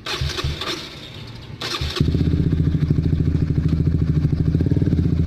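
Honda CB150R's single-cylinder engine, fitted with a long-canister Pro Liner TR-1 carbon aftermarket exhaust, catches suddenly about two seconds in after a short clatter. It then idles steadily with a fast, even pulse and a deep, bassy exhaust note.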